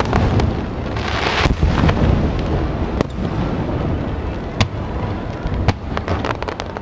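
Large aerial fireworks display: shells bursting in repeated sharp bangs over a continuous low rumble, with a hissing crackle about a second in.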